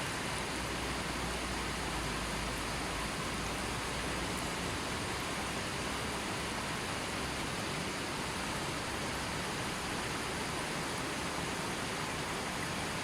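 Gently flowing river: a steady, even rush of water with no breaks, and a slightly stronger deep rumble in the first few seconds.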